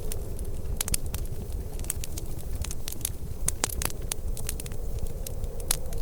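Wood fire crackling, with irregular sharp pops and snaps many times a second over a steady low rumble.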